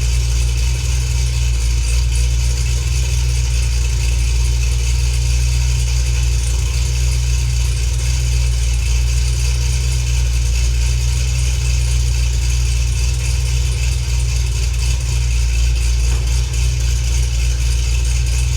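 Cadillac CTS-V V8 with a big cam, 2-inch headers and a catless 3-inch exhaust idling steadily and loud, soon after a cold-ish start.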